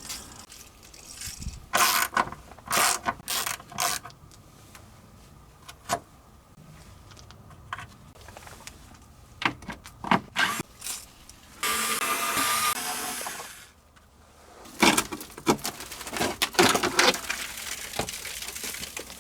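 Hand tools working on the car's underbody: ratchet-wrench clicks and metal clinks in irregular short bursts, with a hissing, whirring stretch of about two seconds a little past the middle.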